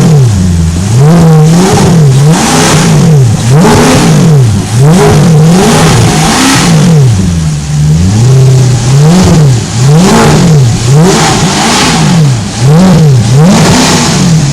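Alfa Romeo 8C's engine revved in a rapid series of short throttle blips, the pitch rising and falling each time, with brief settling toward idle between.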